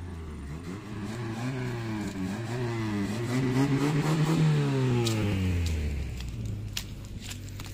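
Kia Pride wagon's engine revving up for about four seconds and then easing back down, the car labouring on a steep dirt track.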